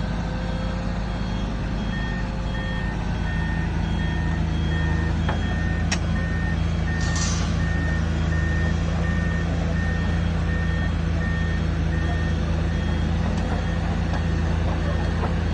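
A heavy truck's reversing alarm beeping steadily over its running diesel engine. Two beepers at different pitches sound together, and both stop near the end. A short hiss comes about seven seconds in, and the engine grows a little louder after about three seconds.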